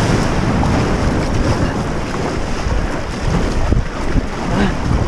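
Strong wind buffeting the microphone over the wash of sea waves and surf.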